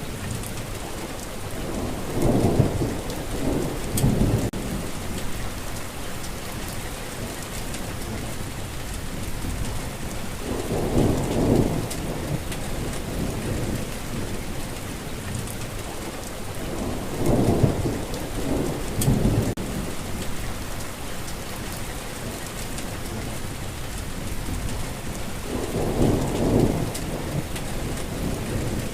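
Steady rainfall with low rumbles of thunder rising and fading four times, roughly every seven to eight seconds.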